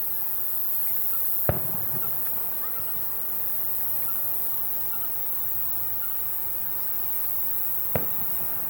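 Two fireworks shells bursting, sharp bangs about six and a half seconds apart, the first followed by a short rumble, over a steady high-pitched hiss.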